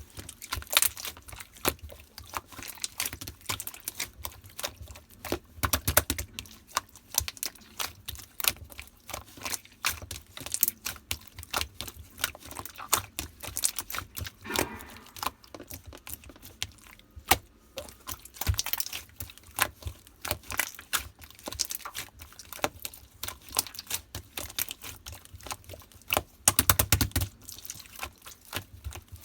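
Yellow slime being squished and worked by hand, making a dense run of small wet clicks and pops, with louder bursts of crackling about six seconds in, near the middle and near the end.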